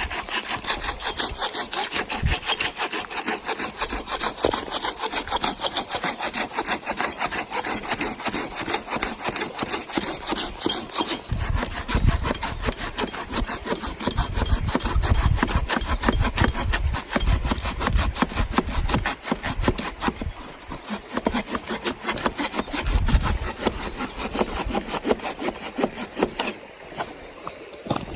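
Silky Pocketboy folding hand saw cutting through a piece of firewood, its teeth rasping in fast, steady back-and-forth strokes.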